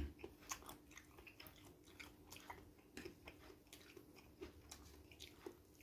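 A person chewing a mouthful of fried noodles with squid close to the microphone: faint, irregular wet mouth clicks and smacks.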